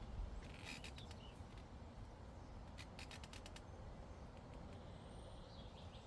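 Quiet meadow ambience: a low wind rumble on the microphone, two short runs of crisp clicks, one about a second in and one about three seconds in, and a brief bird chirp near the end.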